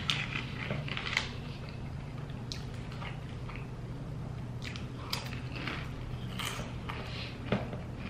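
Close-miked chewing and crunching of tortilla chips dipped in nacho cheese, with a few sharper crunches scattered through, over a steady low hum.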